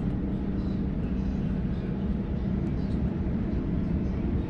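Interior running noise of a Sydney Trains Waratah electric multiple-unit carriage in motion: a steady low rumble with a constant hum.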